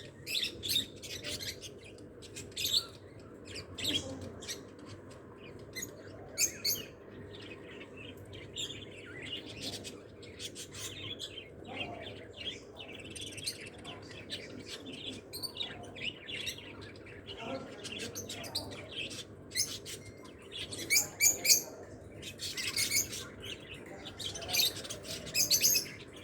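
Lovebirds chirping: many short, sharp, high-pitched chirps in irregular flurries, busiest near the end, over a low steady background hum.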